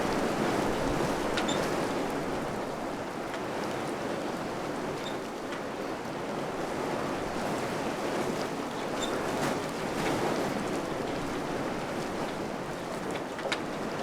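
Wind blowing steadily, rising and easing in gentle gusts, with a few faint short ticks scattered through it.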